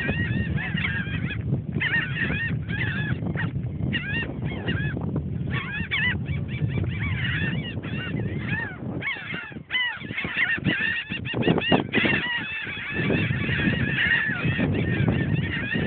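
A flock of birds calling at once, many short overlapping calls with brief lulls, as they crowd in to be fed.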